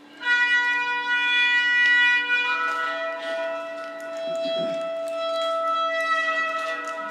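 Shofars blown together in long held blasts, at least two horns sounding different pitches at once, starting just after a quarter second in, with another horn joining about two and a half seconds in. A steady low hum runs underneath.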